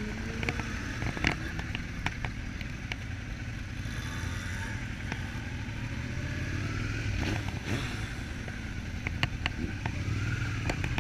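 Suzuki SV650S V-twin engine running at riding speed, heard from a chest-mounted camera with wind noise over it. Scattered short sharp clicks and knocks run through it, and the engine note rises briefly a couple of times.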